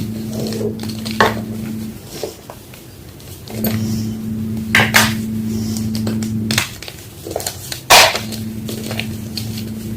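Homemade gym chalk blocks cracking and crunching as they are crushed: scattered sharp snaps, the loudest about eight seconds in. A low steady hum stops and starts twice in the background.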